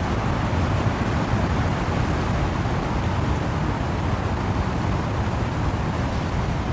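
Wind blowing through trees with rain falling, a dense steady rushing noise heaviest in the low rumble, with no breaks or separate drops or gusts standing out.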